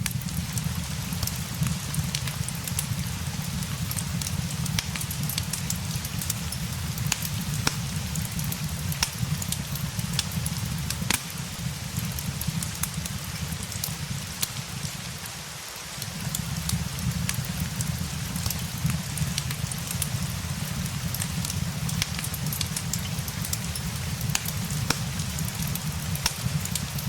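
Steady rain hiss layered with a crackling fireplace, the crackles frequent sharp pops scattered over it, above a steady low rumble. The rumble drops out briefly about halfway through.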